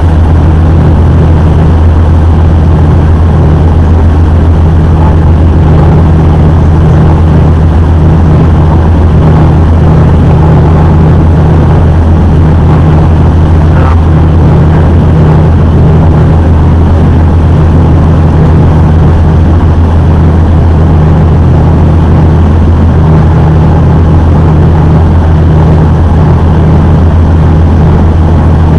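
A river tour boat's engine running steadily under way: a loud, constant low drone.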